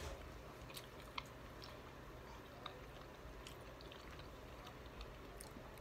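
Faint chewing of bites of a lentil veggie burger on a toasted bun, with scattered small mouth clicks.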